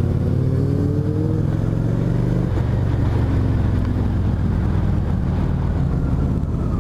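Motorcycle engine under way at highway speed, its pitch rising over the first second and a half, changing about two and a half seconds in, then running steadily.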